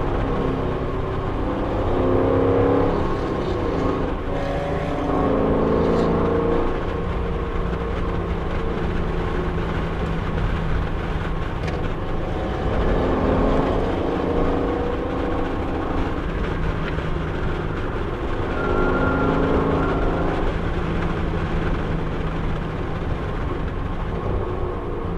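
Camaro SS 1LE's 6.2-litre V8 heard from inside the cabin while being driven hard on a race track. The revs climb several times and drop back between climbs, over steady road and tyre noise.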